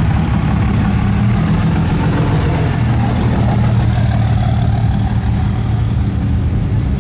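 Truck engine idling steadily, a low drone that shifts slightly in pitch about three seconds in.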